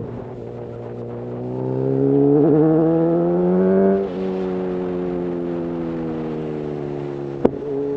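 Honda CB1000R's inline-four engine through a full Black Widow aftermarket exhaust, accelerating with rising pitch, then dropping sharply about halfway through as the rider changes up a gear, and cruising on a lower steady note. A sharp click comes near the end.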